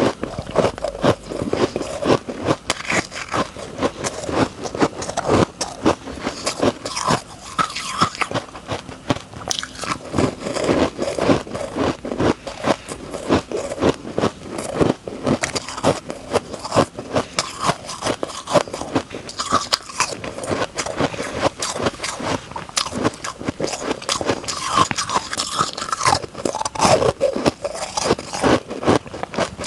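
Close-up crunching and chewing of refrozen honeycomb ice coated in matcha and green barley powder: dense, rapid cracks of ice breaking between the teeth.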